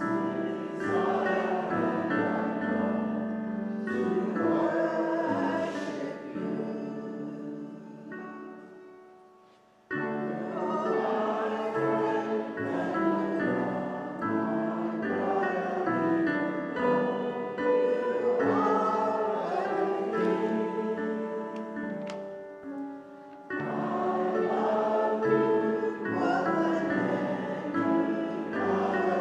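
Group singing of a hymn, music with many voices together. It dies away about eight seconds in, starts again abruptly about two seconds later, and breaks briefly once more near the end.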